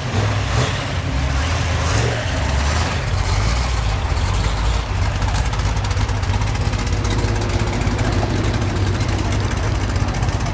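A car engine running steadily at low revs, close by.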